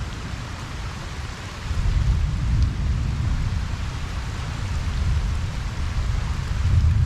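Steady rain falling on a pond, an even hiss, with a low rumble of distant thunder underneath that swells about two seconds in.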